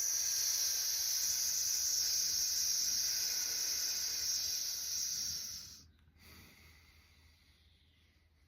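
A long, steady "sss" exhaled through the teeth, the lung sound of the qigong Six Healing Sounds, held for nearly six seconds before it fades off.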